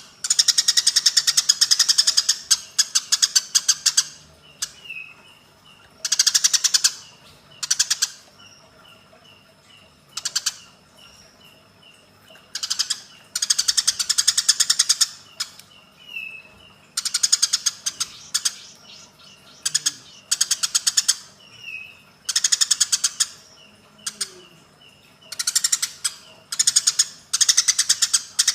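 Eurasian tree sparrows fighting: repeated bursts of rapid, harsh chattering calls, each lasting one to three seconds, with single short chirps in the gaps between them.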